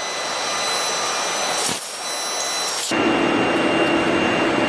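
Tube cutting and welding machine running: a steady, loud hiss with thin whining tones. About three seconds in the sound changes abruptly, and a steady low hum joins it.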